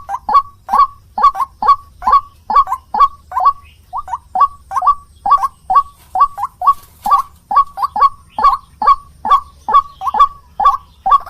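White-breasted waterhen (ruak-ruak) calling, a short note repeated steadily at about two to three calls a second. This is a recorded call played as a lure to draw the birds in.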